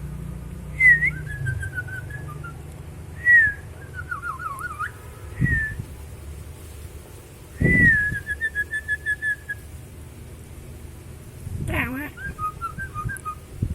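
Nuri (lory) parrot whistling in five separate phrases, each opening with a sharp high note that drops, then runs on in a wavering or rapidly pulsing line; the longest, about eight seconds in, ends in a quick, even trill.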